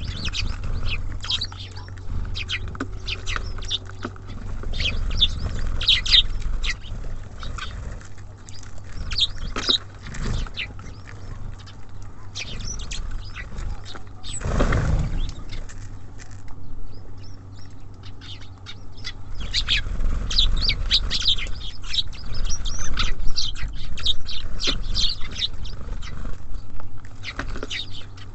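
Small songbirds at a feeder chirping and calling in quick, overlapping bursts. A steady low rumble runs underneath, and a brief whoosh comes about halfway through.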